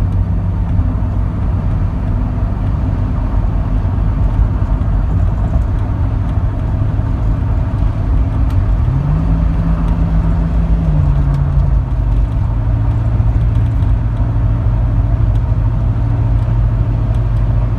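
Jeep Cherokee 4.0 straight-six with a Banks header and Flowmaster Super 10 muffler, heard from inside the cab while driving on the highway at moderate RPM, with a low exhaust drone and some wind and tyre noise. About halfway through, the engine note climbs, holds for a couple of seconds, then drops and settles into a steady cruise.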